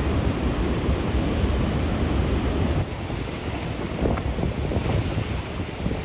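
Steady roar of rushing floodwater from a glacial lake outburst, with wind buffeting the microphone.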